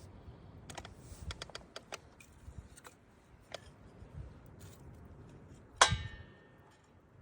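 Wood campfire crackling: irregular sharp pops and snaps over a low rumble, with one much louder pop about six seconds in.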